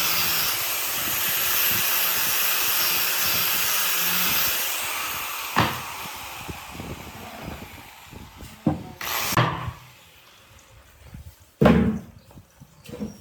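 A workshop power tool running with a steady hiss, switched off about four and a half seconds in and fading out as it spins down. Then come a few separate knocks of wood or tools, the loudest near the end.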